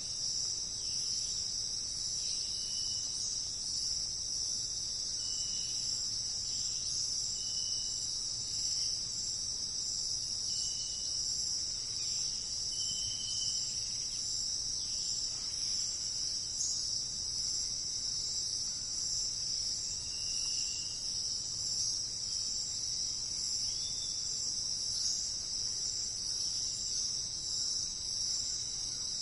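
A steady, shrill chorus of insects trilling without a break. Short high whistled notes cut in every few seconds, seven or so of them over the first two-thirds.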